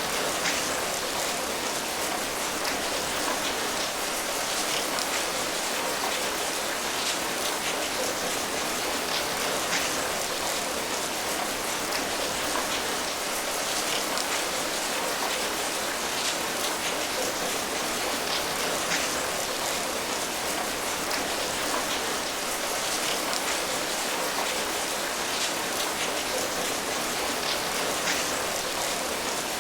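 Steady rain falling, an even hiss of rainfall with many fine drop patters.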